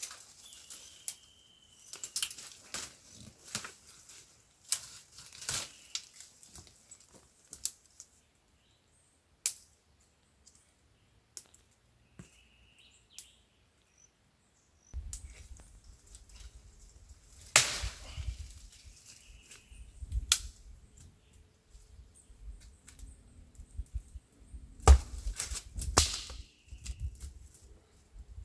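Dry twigs and small sticks snapping and cracking as they are broken by hand, in irregular bursts with a pause in the middle. A bird calls briefly several times.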